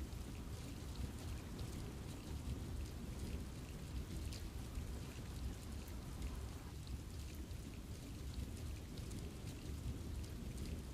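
Steady rain falling in a forest, with many scattered individual drops ticking over an even rushing wash that carries a low rumble.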